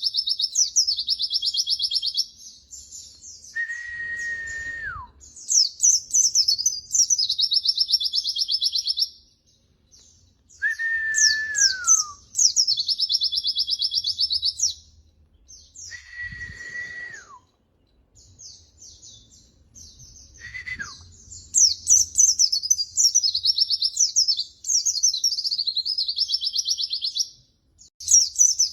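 White-eye (pleci) song: long phrases of rapid, high chattering twitters and trills, broken by short pauses. Four times, a lower whistle is held level and then drops in pitch at its end.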